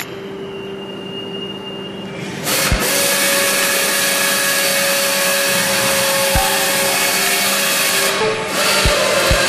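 A loud steady hiss that starts about two and a half seconds in, dips briefly near the end and comes back, over background music with soft low thumps.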